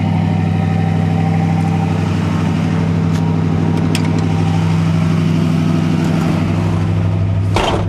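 A 1966 Ford Galaxie 500's rebuilt 289 Cobra V8, with a cam and a new Holley carburettor, idling steadily through its new dual exhaust. A short knock comes near the end.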